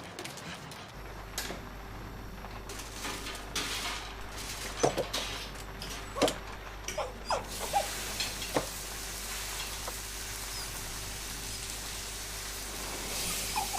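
Foley sound effects: a steady low hum starts about a second in, with a run of clicks, knocks and short creaks between about three and nine seconds in.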